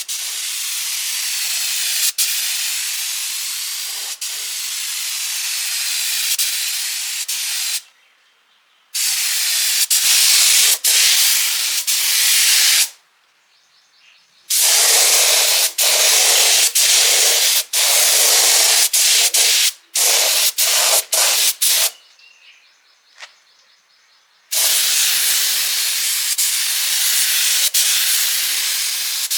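A high-pressure spray hissing loudly in long bursts, cut off abruptly several times with short pauses and a run of quick stop-start interruptions in the middle.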